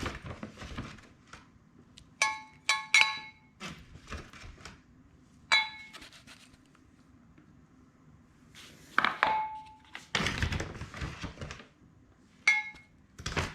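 A small plant spade clinking against a flower pot, about five short ringing taps. A longer scraping rustle of potting mix being scooped and poured comes about nine to eleven seconds in.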